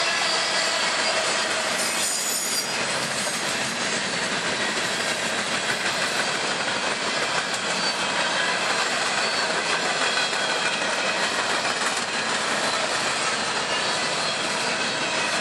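Freight cars of a mixed manifest train rolling steadily past: a continuous rumble and rattle of steel wheels on the rails, with faint high squealing from the wheels.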